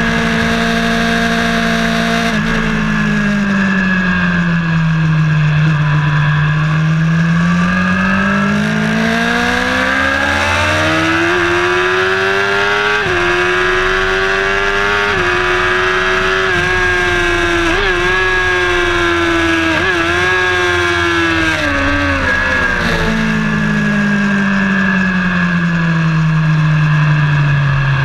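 Track-day vehicle engine heard onboard at speed. The revs fall, climb steadily for several seconds, hold high with a few brief dips, then drop again near the end, over a steady high whine.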